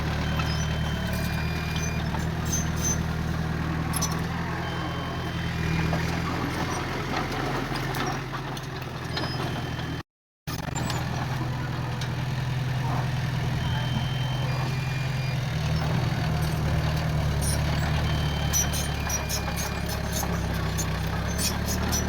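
Heavy diesel engine of earthmoving machinery running steadily at low revs, with scattered light clicks and clanks. The sound cuts out for a moment about ten seconds in.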